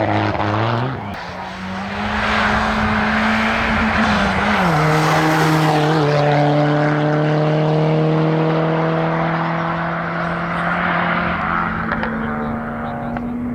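Race car engine at full throttle on a hillclimb: the note holds high, drops in pitch about four and a half seconds in, then climbs slowly as the car carries on up the hill.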